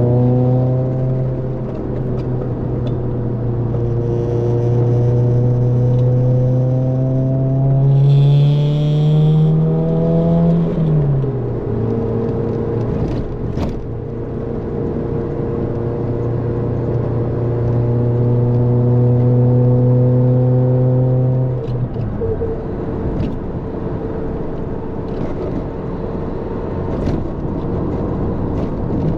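Toyota AE86's 4A-GE twin-cam four-cylinder engine through a Fujitsubo exhaust, heard under way: the engine note climbs steadily for about ten seconds, drops sharply, then holds a steady pitch. About twenty-two seconds in the steady note breaks off and the engine sound turns rougher and less even.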